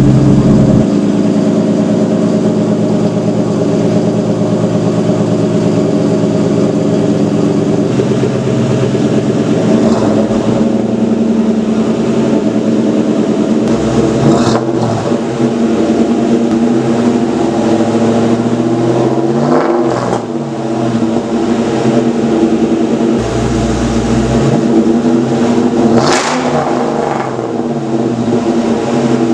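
Straight-piped Ford Mustang GT V8 running loud on its first start after months of sitting, idling with several quick throttle blips, the sharpest near the end.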